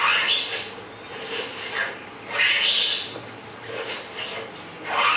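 Pet lovebirds calling with harsh screeches: three loud calls about two and a half seconds apart, with softer chirps between them.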